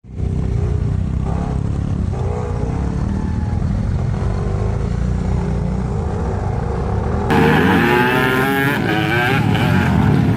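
Motocross dirt bikes running with a heavy low rumble, engine pitch wavering. About seven seconds in, an abrupt cut brings engines revving up and down more sharply.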